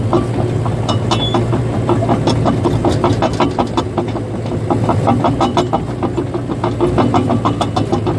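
Caterpillar bulldozer's diesel engine running steadily, under the fast, regular clatter of its steel tracks, several clanks a second.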